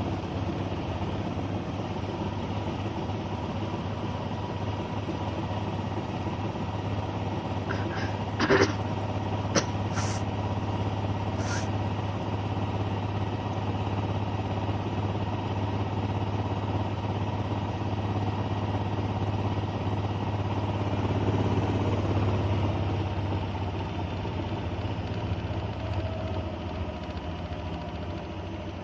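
Siemens washing machine running with a steady motor hum, with a few short knocks about eight to twelve seconds in.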